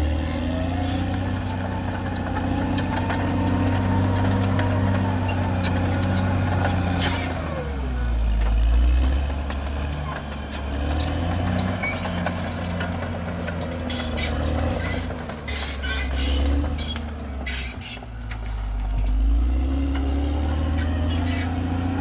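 CAT D6R XL bulldozer's diesel engine running under changing load, its pitch dipping and then rising again twice as the load shifts, with scattered clicks and knocks over it.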